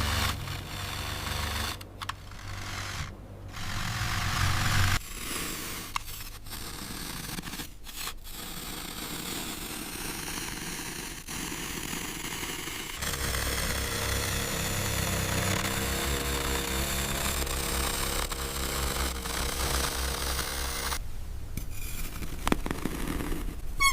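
Heavy-machinery engine and rattling sounds, a low rumble that changes abruptly about 5, 13 and 21 seconds in.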